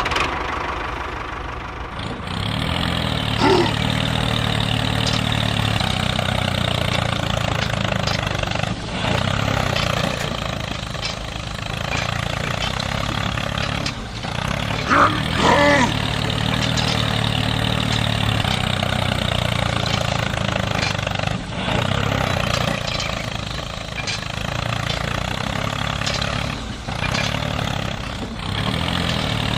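Tractor engine running steadily, with brief high-pitched sounds a few seconds in and again about halfway through.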